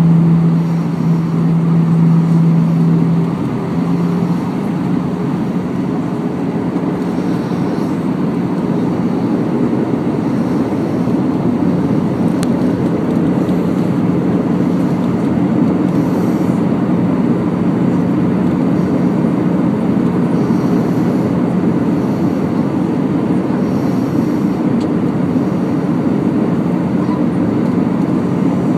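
Airbus A319 cabin noise in flight on the descent: a steady rush of airflow with a low engine hum. About three seconds in, the hum drops away and a slightly higher steady hum carries on.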